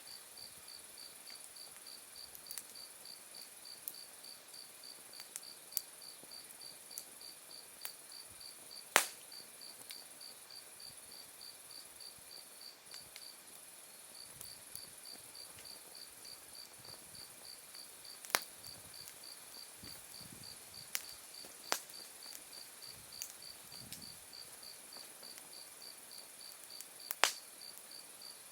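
Autumn-night insects calling steadily around an open wood fire, one a high, evenly pulsing trill of about four to five pulses a second that breaks off briefly about halfway. Burning wood gives occasional sharp pops and crackles, the loudest about a third of the way in and again near the end.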